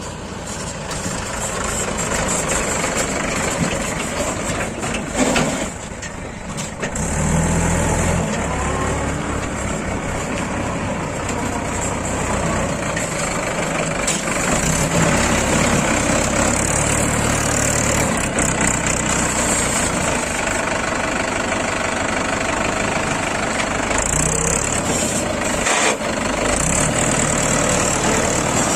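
Heavy diesel engine running, swelling up in level several times as it works.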